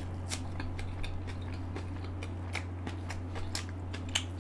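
Close-miked chewing of a raw onion ring: irregular crisp crunches and mouth clicks, over a steady low hum.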